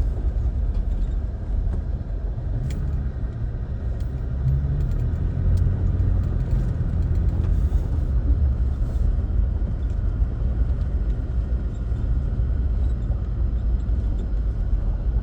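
A car driving slowly, heard from inside the cabin as a steady low rumble of engine and tyres, with a few light clicks and knocks.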